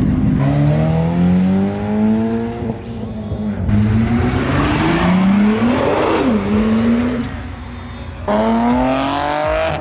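A car engine revving hard as the car accelerates away, its pitch climbing, dropping back about three seconds in, then climbing again to a peak about six seconds in before falling off. A fresh burst of rising revs starts suddenly about eight seconds in.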